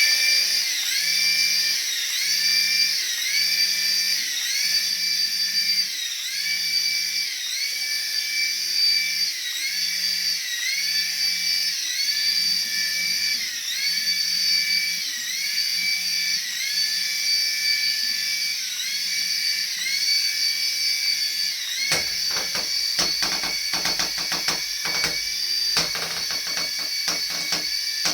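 Small electric motor of a radio-controlled toy running with a high whine that dips briefly in pitch about once a second. A run of rapid clicks and knocks joins it a few seconds before the end.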